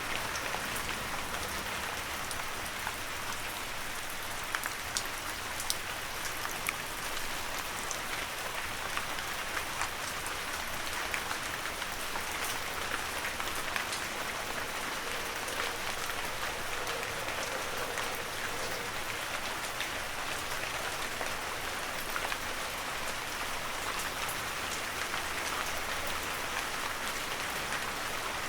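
Heavy rain falling steadily, a dense even hiss, with individual drops ticking sharply here and there.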